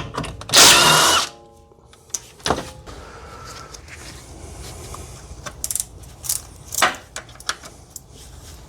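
A short burst from a power impact tool on the engine-mount bolts, followed by scattered metallic clicks and clinks of tools and bolts.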